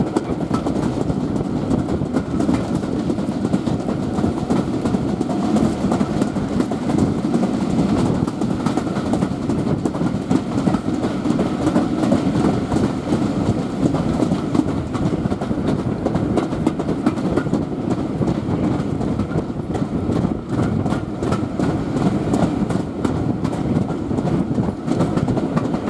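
Train rolling along the track, a steady rumble of wheels on rails with clickety-clack, and a run of sharp clicks about twenty seconds in.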